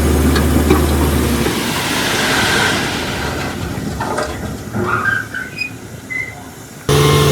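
Heavy diesel machine engine running steadily, dropping away about a second and a half in, followed by a rushing noise of loose rock shifting with scattered clinks. Near the end an engine cuts back in suddenly and loudly.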